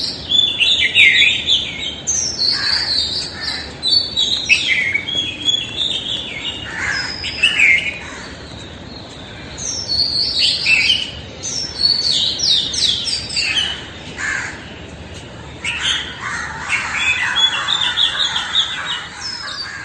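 Dawn chorus of many songbirds singing overlapping, high chirping and warbling phrases, with harsher crow-like calls of rooks at their nests mixed in, most noticeably near the end.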